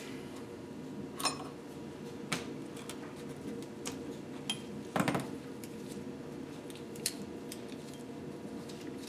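Light metallic clinks and taps of tools and engine parts being handled, scattered a second or two apart, some ringing briefly, with the loudest clatter about five seconds in. A steady hum runs underneath.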